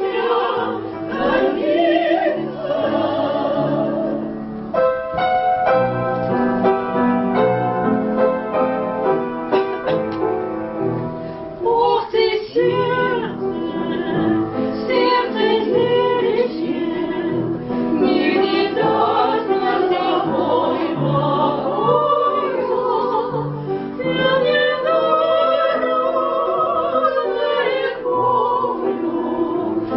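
Voices singing in an operatic, classical style with strong vibrato, accompanied by piano.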